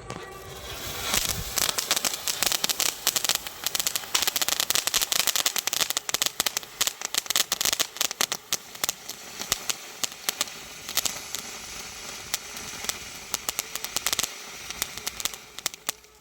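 Colour Rain hand-lighter firework burning: a hissing spray of sparks full of dense crackling pops, starting about a second in, thinning out near the end and dying away.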